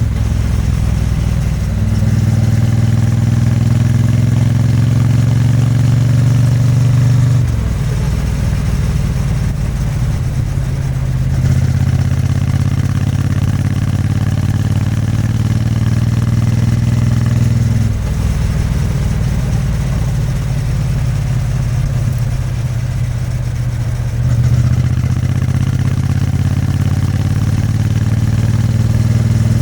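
Triumph Bonneville T100's 900 cc parallel-twin engine and exhaust running under way. The note climbs slowly in pitch through long pulls and drops back sharply three times, about 7, 18 and 24 seconds in.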